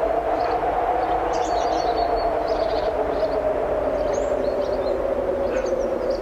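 Strong wind blowing steadily with a faint wavering tone, and small birds chirping now and then over it.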